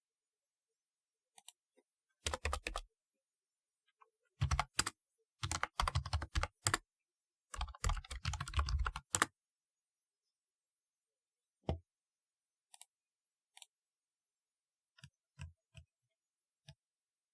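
Typing on a typewriter-style keyboard: four quick runs of key clicks in the first nine seconds, then single keystrokes spaced out, with dead silence in between.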